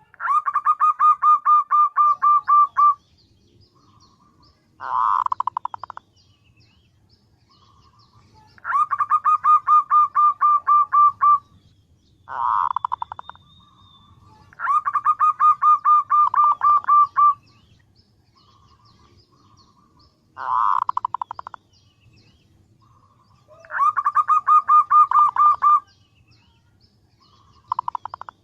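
Female zebra dove (perkutut) calling to attract a male: four long runs of rapid, evenly pulsed notes, each two to three seconds, alternating with shorter, slightly lower bursts.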